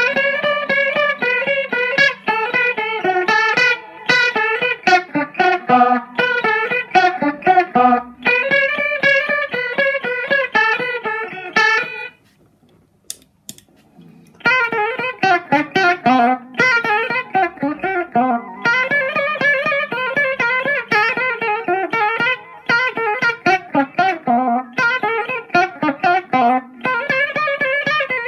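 Guitar played in fast runs of plucked notes. It stops for about two seconds just before the middle, where a couple of sharp clicks are heard, then starts again.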